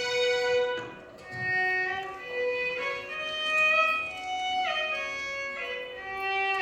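Violin orchestra playing a Carnatic melody as one line: a long held note, a brief drop in level about a second in, then a phrase of moving notes with slides between some of them.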